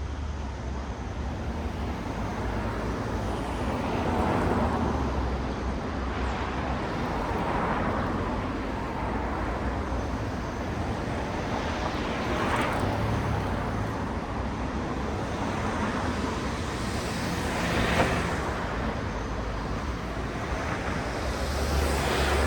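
Road traffic: cars passing one after another, each swelling up and fading away, about five passes over a steady traffic rumble.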